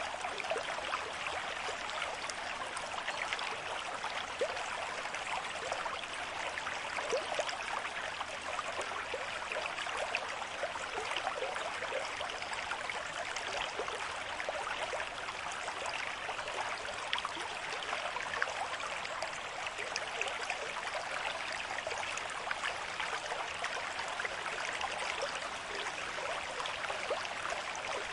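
River stream with a moderate flow, water running and splashing over stones in a steady, even rush, with many small gurgles and splashes in it.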